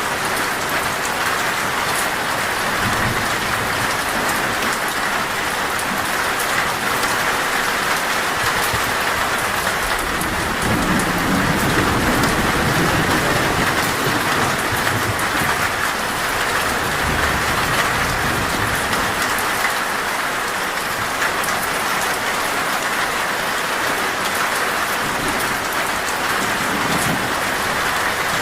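Torrential rain drumming steadily on a metal roof, with fine patter of drops over a dense hiss. About a third of the way in, a low roll of thunder swells for a few seconds and fades.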